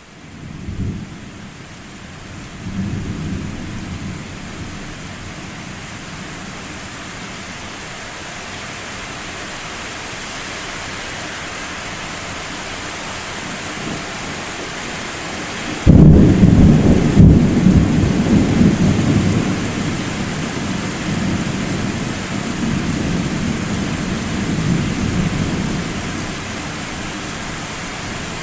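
Steady rain with thunder rumbling low a couple of times near the start. About halfway, a sudden loud thunderclap breaks close by and rolls on for about ten seconds, with a deep low rumble, before fading back under the rain.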